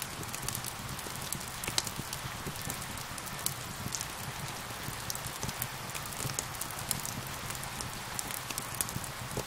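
Steady rain hiss layered with a crackling wood fire, whose sharp pops and snaps come irregularly throughout.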